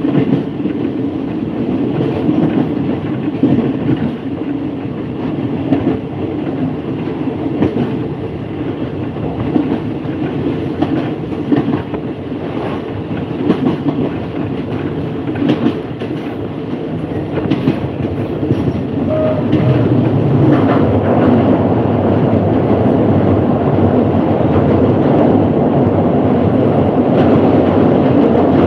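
Passenger train running along the track, with a steady rumble and irregular clicks of the wheels over rail joints. The sound grows louder and fuller about two-thirds of the way through.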